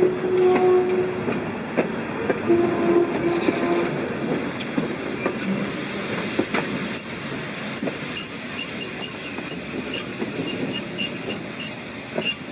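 SAR RX-class steam locomotive No. 207 and its carriages running on the line. Wheels click over rail joints and a thin metallic wheel squeal sets in about halfway through, while the whole sound grows steadily quieter.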